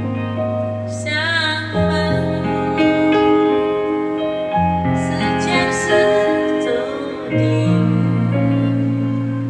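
Slow, gentle song: a woman singing with vibrato over piano and sustained keyboard chords.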